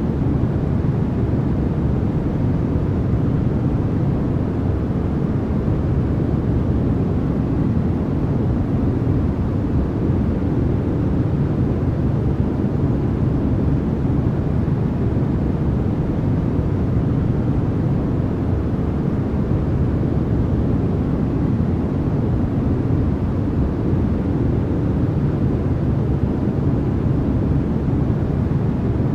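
Continuous sleep-noise track, sold as white noise: a steady, unbroken rush weighted toward the low end, deep rather than hissy, with no change in level.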